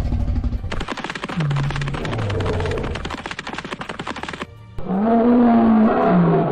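Cartoon soundtrack: music with a large animal's deep, roar-like calls. There are two short falling calls in the first half over a crackling, rumbling noise, then a longer call near the end that rises, holds and drops away.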